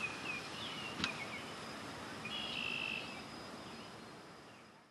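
Outdoor ambience over a steady background hiss, with small birds chirping and one short buzzy trill. A single sharp click comes about a second in, and the sound fades out near the end.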